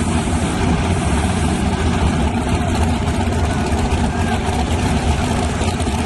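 Drag-race S10 truck engine idling with a steady, low rumble and no revving.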